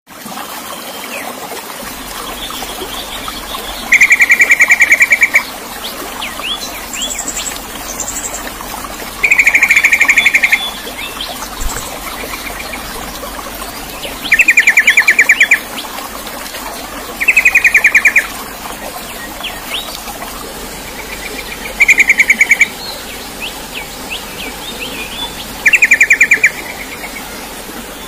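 Songbird singing: a loud, rapidly pulsed trill about a second and a half long, repeated six times, with softer short chirps between, over a steady hiss.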